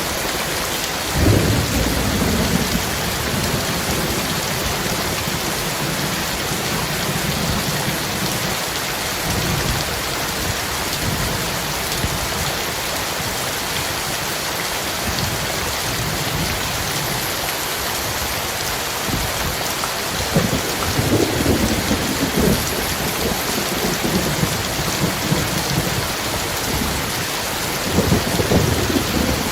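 Heavy rain pouring steadily, with thunder: a sudden clap about a second in, then rolling rumbles about two-thirds of the way through and again near the end.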